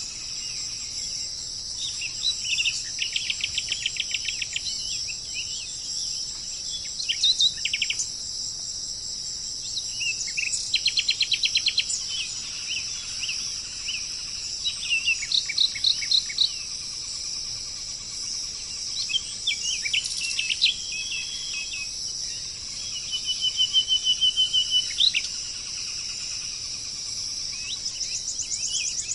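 Small songbirds singing: short rapid trills and chirps repeated every few seconds, one trill held on a steady pitch near the end, over a constant high-pitched hiss.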